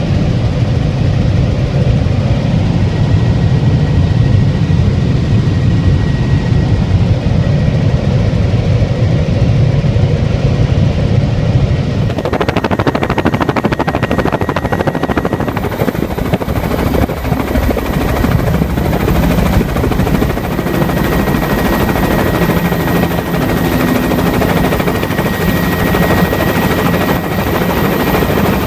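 Helicopter in flight, engine and rotor noise heard loud and steady. About twelve seconds in, a deep rumble changes abruptly to a rapid, even chopping rattle from the rotor blades.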